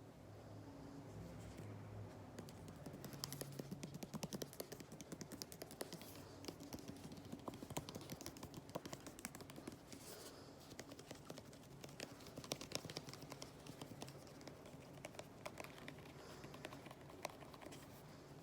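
Fingers tapping and scratching on household cleaning goods: many rapid, irregular light taps and clicks with some scratching, faint overall.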